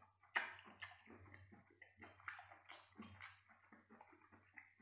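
Wet mouth sounds of eating a geoduck siphon: a sharp lip smack about a third of a second in, then a quick, irregular run of small smacking, squishing clicks as the flesh is bitten and chewed.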